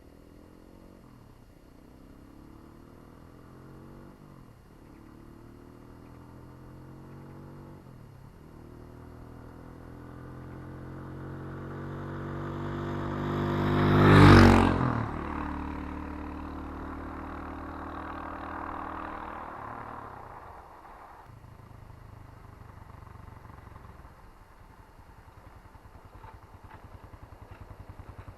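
Irbis Garpia 250 motorcycle's single-cylinder engine riding past: it grows louder as it approaches, its pitch climbing with a few brief gear-change dips, is loudest about halfway through with the pitch dropping as it goes by, then fades away.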